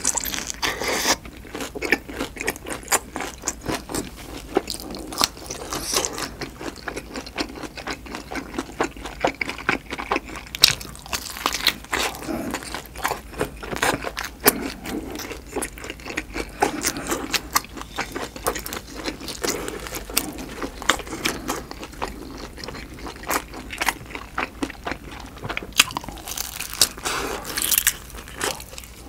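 Close-miked chewing of duck bulgogi dumplings: a steady run of irregular crunching and wet mouth clicks as a full mouthful is chewed.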